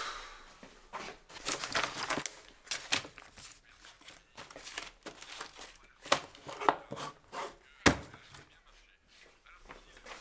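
Hands rummaging through papers and small objects on a wooden chest of drawers: rustling, crinkling and small knocks, with one sharp knock about eight seconds in.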